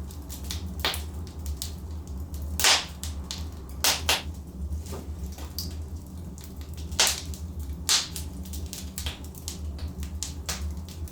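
Logs burning in a fireplace, crackling with scattered sharp pops, a handful of them louder, over a steady low rumble.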